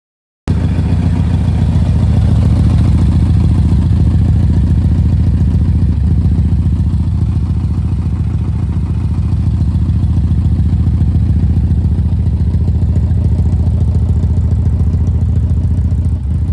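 1991 BMW K1's inline four-cylinder engine running steadily through an aftermarket full exhaust system, a loud, even, low exhaust note. It starts abruptly about half a second in.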